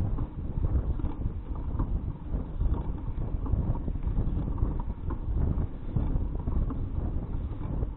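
Wind buffeting the microphone of a bicycle-mounted action camera while riding: a steady low rumble with faint, irregular light ticks.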